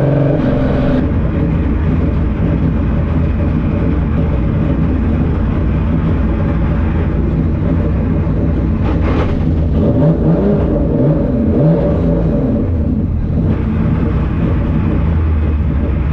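A 3.6 litre VR6 engine in a Mk2 Volkswagen drag car running loud and hard through a drag-strip pass, its pitch gliding up a few times about two-thirds of the way in.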